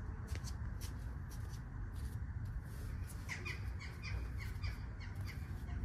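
A bird calling: a quick run of short, falling notes, starting about three seconds in and lasting about two seconds, over a steady low hum.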